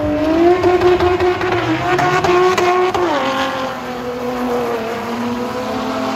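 Car accelerating hard down a drag strip: engine held at high revs, then a sudden drop in pitch at a gear change about three seconds in, after which it pulls on steadily at lower pitch.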